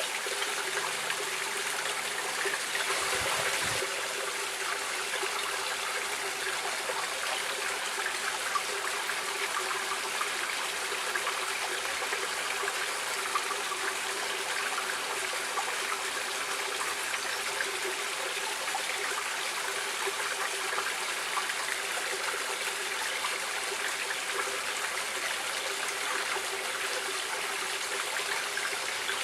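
Stream water running and splashing in a steady rush with small trickles and splashes, slightly louder for a moment about three seconds in.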